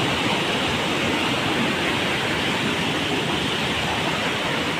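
Steady rush of flowing water, an even hiss and rumble without a break.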